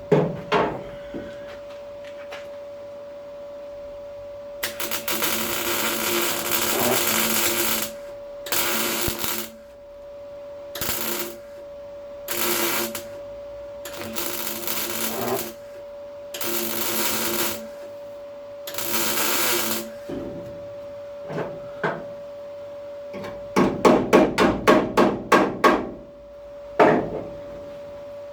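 Small MIG welder laying short bursts of weld on car body steel: seven crackling, hissing bursts, each half a second to three seconds long, over a steady hum. Near the end comes a quick run of about nine sharp taps.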